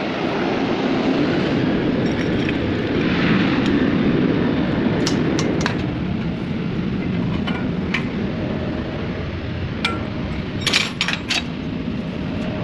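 Short metallic clinks of tools and fittings being handled during work on a refueler tanker's fueling hose: a few light ones about halfway through, then a quick cluster of louder clinks near the end. Under them a steady low rumble of machinery runs throughout.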